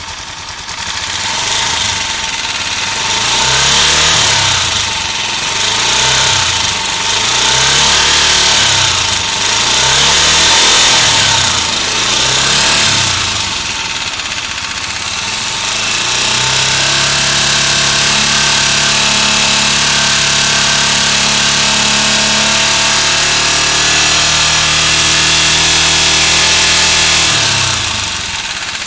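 AKT NE 150 motorcycle engine being revved: five short blips of the throttle about every two seconds, then held at a steady raised speed for about ten seconds before dropping back near the end, with a strong high-pitched mechanical noise over the engine note. The owner takes this noise for abnormal after three months of use, though the workshop calls it normal and the engine well adjusted.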